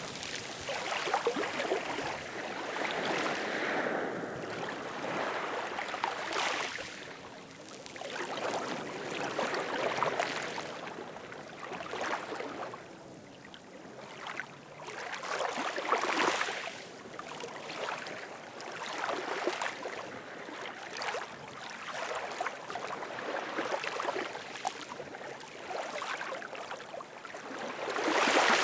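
Ocean waves washing in: a rushing noise that swells and ebbs every few seconds, with the loudest wave breaking near the end.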